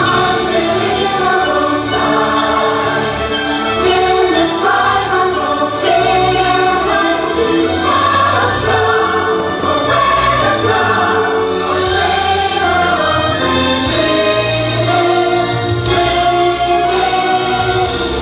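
Orchestral music with a choir singing sustained, shifting chords: the soundtrack of a fireworks show.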